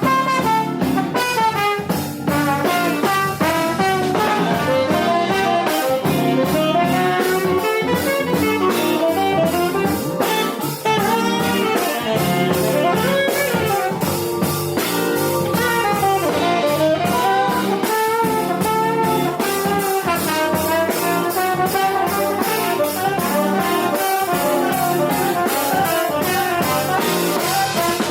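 Live jazz sextet of tenor saxophone, trombone, electric guitar, piano, electric bass and drum kit playing an instrumental piece. The horns carry busy melodic lines over steady drums and cymbals.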